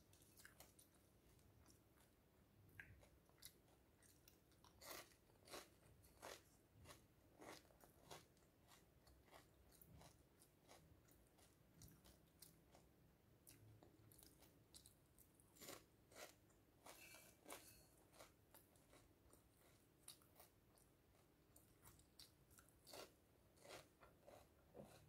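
Pumpkin seed seaweed crisps being bitten and chewed: faint, irregular crunches one after another, in busier runs now and then.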